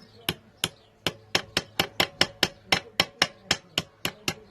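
Light, quick hammer taps driving a universal joint bearing cap into the drive shaft yoke, about four taps a second after a brief pause near the start.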